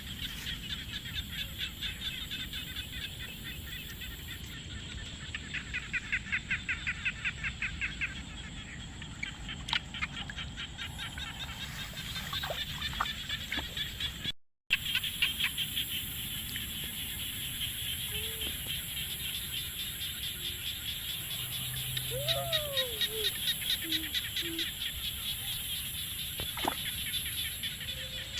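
A steady outdoor chorus of calling animals, high and fast-pulsing at about ten pulses a second. It breaks off for an instant about halfway through, and a few lower, gliding call notes come in during the second half.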